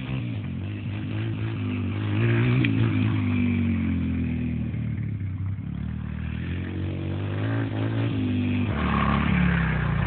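Small dirt bike engine revving as it is ridden, its pitch rising and falling several times.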